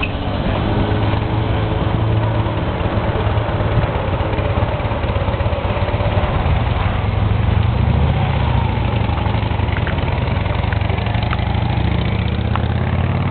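A vehicle engine running steadily: a continuous low rumble with no marked change in pitch.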